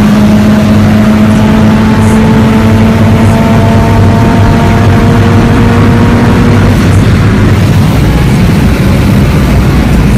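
Toyota Celica GT-Four ST205's turbocharged four-cylinder engine heard from inside the cabin, pulling at speed with its pitch climbing slowly for about seven seconds. Near the end the engine tone fades under a steady low roar.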